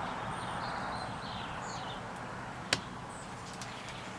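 Several faint, short bird chirps, with one sharp click about two-thirds of the way through.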